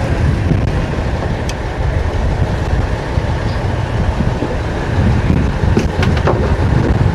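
Strong wind buffeting the microphone aboard a small drifting boat, a steady low rumble, with a few small sharp clicks and knocks around the boat.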